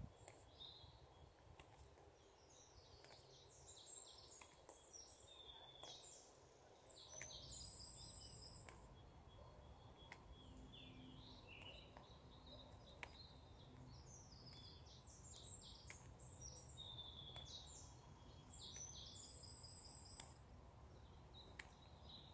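Faint woodland birdsong: quick high chirps and trills in two spells, over a low steady background rumble.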